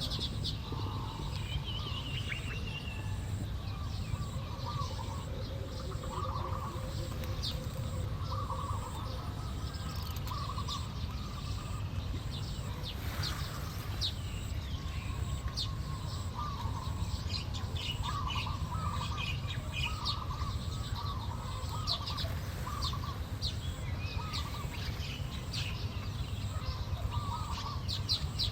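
Weaver birds chirping and chattering, many short high chirps throughout, with a lower repeated call from another bird over a steady low rumble.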